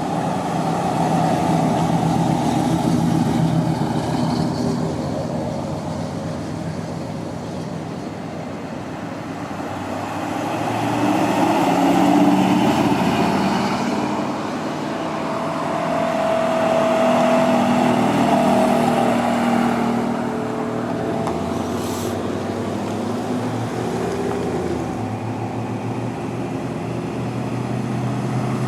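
Car engines running, the sound swelling and fading several times as vehicles move about; a single sharp click about 22 seconds in.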